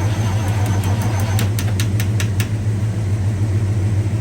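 An engine idling steadily, with a quick run of sharp clicks about a second and a half in.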